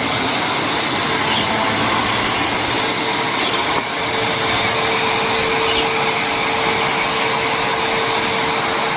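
Bissell CleanView Compact 3508 upright vacuum cleaner running steadily, a loud even roar with a high whine, on its first run after being plugged in. The level dips briefly about four seconds in.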